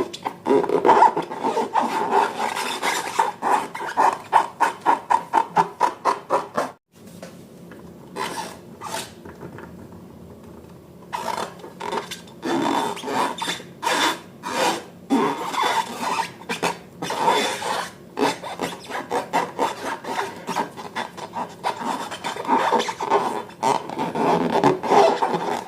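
Slime being worked by hand: rapid rhythmic squishing and rubbing, about three to four strokes a second. It stops abruptly about seven seconds in, stays soft and sparse for a few seconds, then resumes more irregularly.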